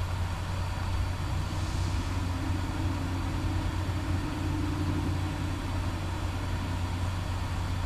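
Heavy truck's engine running steadily, heard from inside the cab as a low drone.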